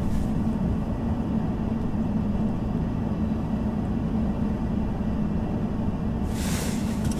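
A running vehicle's steady low rumble, with a rushing hiss joining it about six seconds in.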